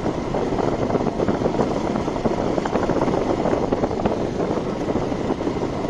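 Steady motorcycle ride noise: the bike's engine running at road speed under rough wind buffeting on the microphone.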